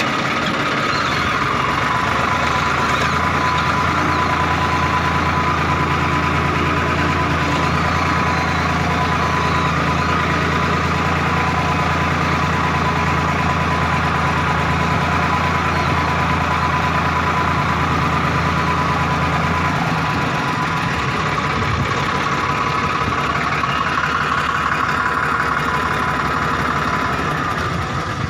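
Combine harvester running steadily: a loud diesel drone with a constant high whine from the machinery over it. The low drone drops away about twenty seconds in, while the whine carries on.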